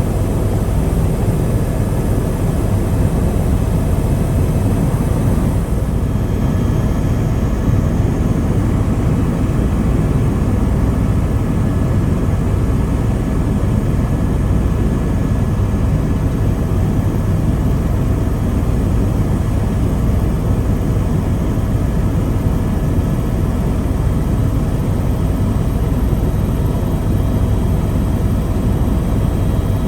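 Helicopter in flight: the steady drone of engine and rotor, with faint steady whining tones above it and no change throughout.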